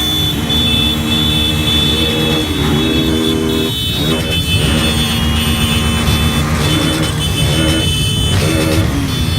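Motorcycle engines running in a dense crowd of bikes, several revving with their pitch climbing and falling again and again over a continuous engine din.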